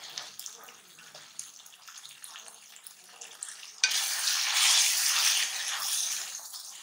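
Chicken, tomatoes and spices frying in a metal karahi. A quiet sizzle at first turns suddenly loud about four seconds in, when a wooden spatula stirs the pan, and eases near the end.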